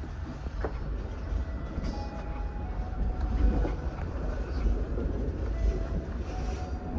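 Passenger train running along the track, heard from its rear: a steady low rumble of wheels on rail, with faint high ringing tones and an occasional light click.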